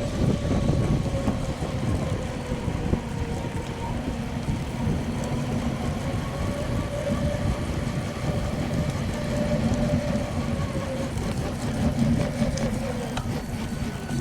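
Wind buffeting the microphone of a camera carried on a moving bicycle, a continuous low rumble with a faint steady hum running under it.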